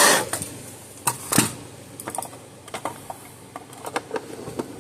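Plastic housing of a fence charger being handled and fitted together. A short scraping burst comes at the start, then two louder knocks about a second in, followed by scattered light clicks.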